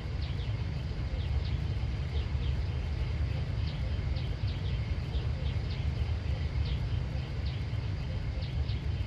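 Outdoor ambience: a steady low rumble, with short high chirps repeating irregularly about once or twice a second from small animals such as birds or insects.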